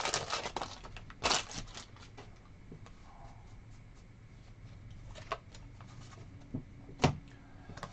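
Quiet handling of trading cards: a soft rustle about a second in, then a few small clicks and taps near the end.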